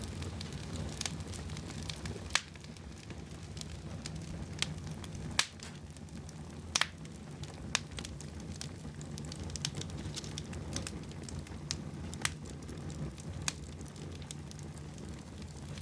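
Fire burning in a fireplace: a steady low rumble of flames with irregular sharp crackles and pops every second or so, a few of them louder than the rest.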